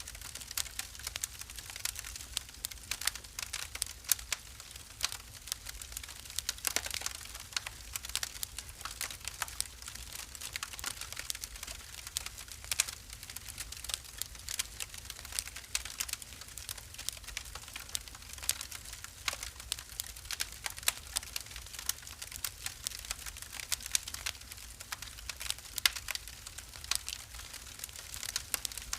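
Wood fire burning in a fireplace, crackling and popping irregularly over a low, steady rumble of the flames, with a sharper hiss of escaping gas about seven seconds in.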